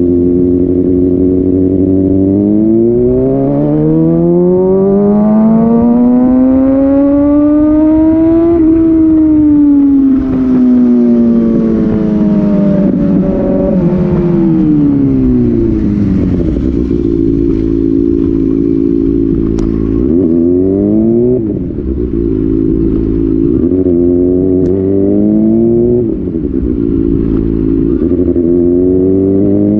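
Kawasaki Ninja ZX6R inline-four with an Austin Racing slip-on exhaust. The engine note rises steadily for several seconds under acceleration, then falls back. A few quick rev rises and drops come about two-thirds of the way in, and the note climbs again near the end.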